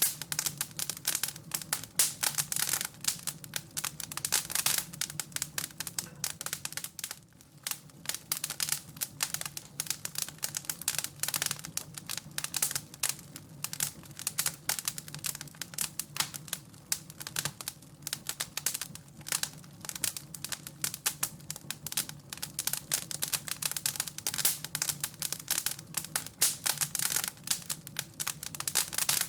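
Wood fire crackling and popping in a dense, irregular stream of sharp clicks, over a steady low hum.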